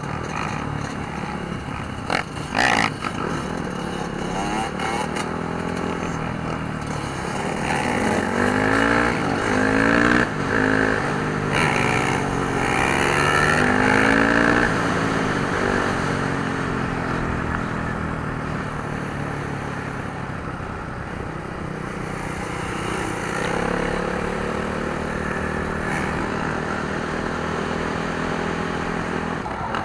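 Dirt bike engines revving, their pitch climbing and falling again and again, busiest from about eight to fifteen seconds in.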